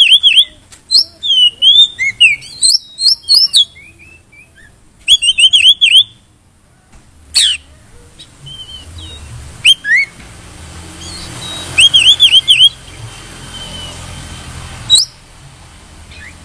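Oriental magpie-robin singing: loud bursts of rapid, repeated whistled notes and chirps, in short phrases separated by pauses, with a faint low background hum building in the middle.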